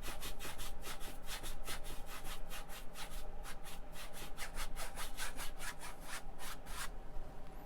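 Paint brush scrubbing back and forth on a canvas, laying in oil paint in quick even strokes, about five a second, which stop shortly before the end.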